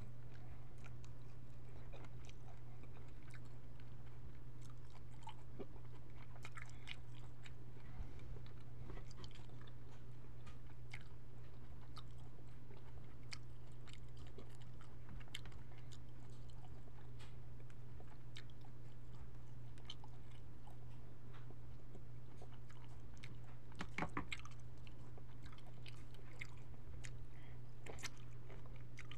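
Close-miked eating sounds of cooked jumbo shrimp being bitten and chewed, with scattered wet mouth clicks and smacks and the crackle of shrimp shell being peeled, over a steady low hum.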